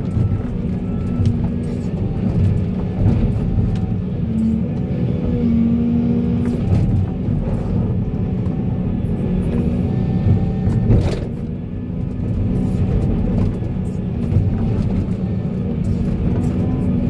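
Diesel engine of heavy earthmoving machinery running steadily, with scattered knocks.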